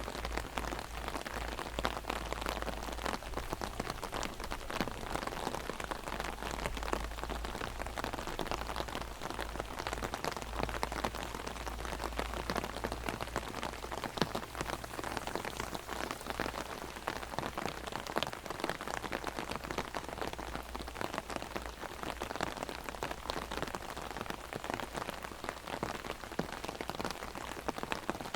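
Heavy rain pattering on an umbrella overhead: a dense, steady patter of countless drops.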